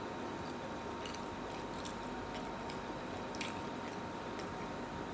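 Close-up eating sounds: a person chewing food, with soft wet mouth clicks about once a second over a steady background hiss and a faint steady tone.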